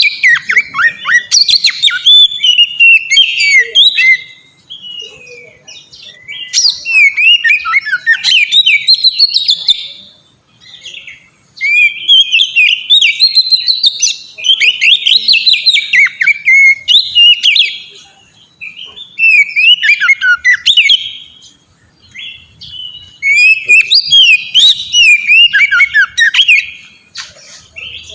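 Oriental magpie-robin (kacer) singing freely: loud, rapid strings of varied whistles and chirps in bursts of several seconds, broken by short pauses of a second or two.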